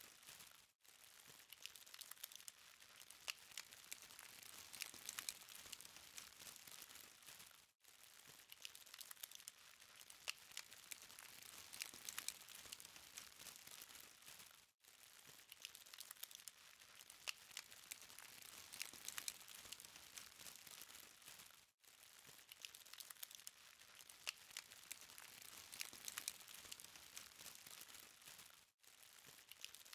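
Burning charcoal crackling faintly, a steady patter of small pops and ticks. The sound drops out for a moment about every seven seconds.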